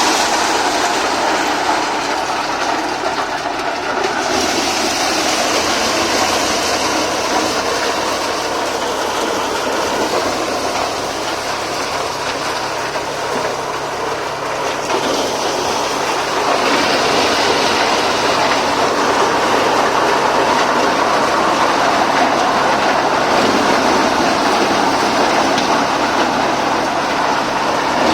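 Tractor-driven maize thresher running: a steady, dense mechanical din of the machine working through the corn, with the tractor engine beneath it, growing slightly louder about two-thirds of the way through.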